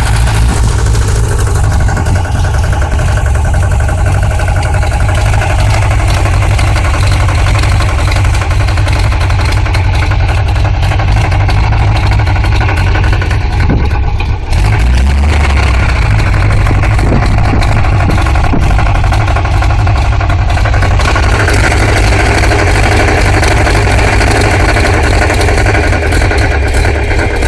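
An engine running steadily, loud and low, with a brief dip about halfway through.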